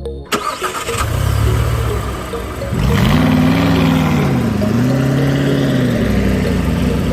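An engine starting up and then revving, its pitch rising and falling twice before settling into a steady run.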